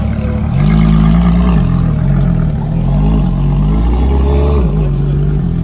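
Ferrari LaFerrari's V12 running as the car creeps forward, getting louder about half a second in, its note rising and falling with light throttle several times before settling near the end.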